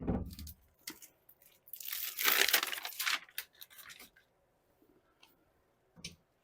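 A sheet of self-adhesive sound deadener being handled and pressed into place. It starts with a bump, and about two seconds in there is a loud tearing, crinkling noise lasting about a second and a half, followed by a few small clicks.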